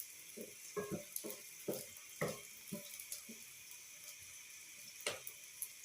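Food frying in a cooking pot over the fire: a steady sizzle, with a few short faint knocks and one sharp click about five seconds in.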